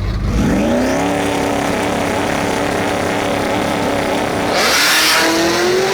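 A performance vehicle's engine revs up sharply and pulls hard at full throttle. Near the end a brief loud hiss breaks in, like a gear change, and the engine pitch climbs again as it pulls in the next gear.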